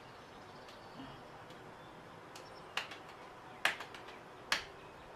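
Sunflower seed shells cracking between the teeth: three sharp cracks in the second half, with a few fainter clicks before them.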